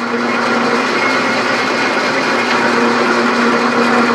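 Metal lathe running under power: a steady motor and drive hum with a constant pitch and a dense whine from the gearing and belt, its 1 hp motor driving through a single V-belt.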